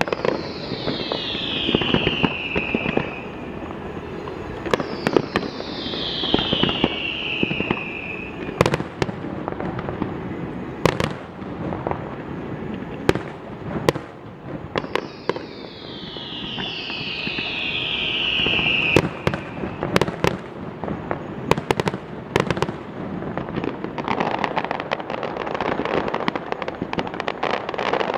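Fireworks display: sharp bangs of bursting shells throughout, with three whistles that slide down in pitch over two or three seconds each. A dense run of bursts comes near the end.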